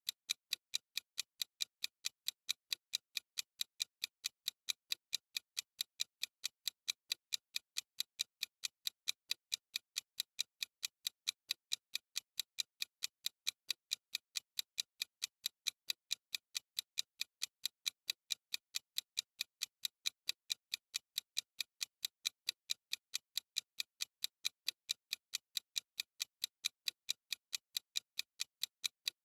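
Clock-ticking sound effect: a steady, even run of short, crisp ticks repeating several times a second, with silence between them.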